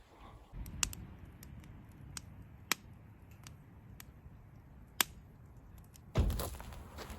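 Campfire crackling: irregular sharp pops and snaps of burning wood over a low rumble, with a louder rushing surge about six seconds in.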